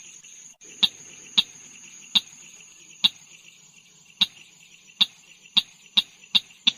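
Call of the bird known in Indonesian as tut-tutan merah: short, sharp 'tut' notes repeated about ten times at irregular intervals, coming quicker near the end, over a steady high-pitched whine.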